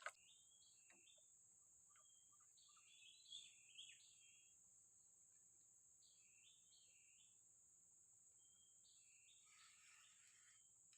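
Faint bird calls: short warbling chirp phrases repeated a few times, over a steady high insect drone.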